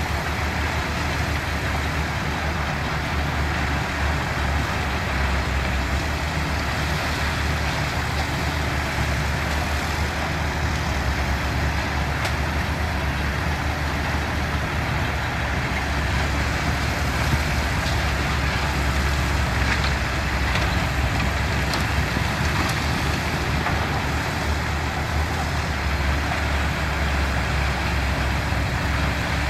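Heavy diesel engines of construction machinery running steadily with a deep low hum, with a few faint knocks around two-thirds of the way through.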